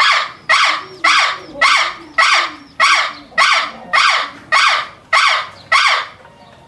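A bird giving a loud, harsh call over and over, about eleven calls at an even pace of nearly two a second.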